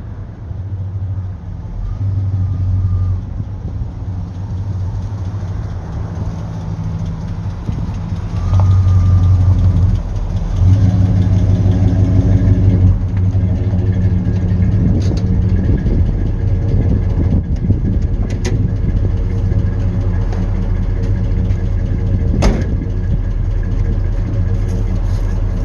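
1965 Chevrolet El Camino's engine running, growing louder about eight seconds in and again a couple of seconds later, with a few sharp clicks later on.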